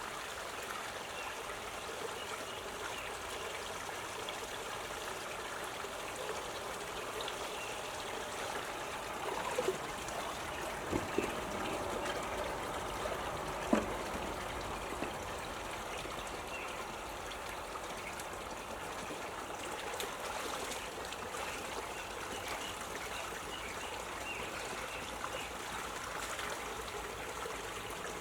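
Water running and trickling steadily, with a few faint knocks in the middle.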